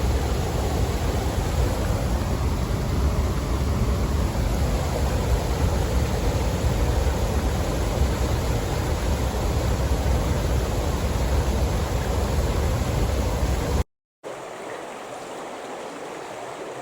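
Waterfall in spate, a loud steady rush of floodwater with a deep rumble. It cuts off abruptly near the end, giving way to the quieter steady flow of a river.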